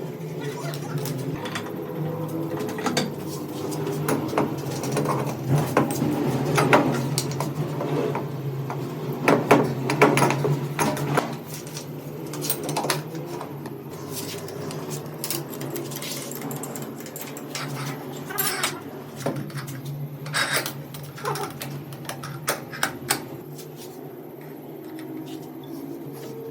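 Irregular metallic clicks and clinks, like hand tools knocking on metal parts, over a steady low mechanical hum.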